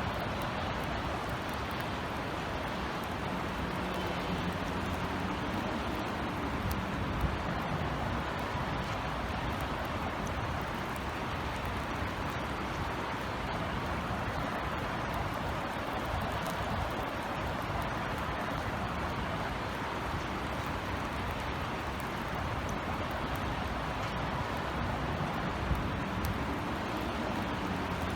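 Steady light rain drizzling on outdoor surfaces, with a low hum of city traffic underneath and a couple of sharp ticks of single drops.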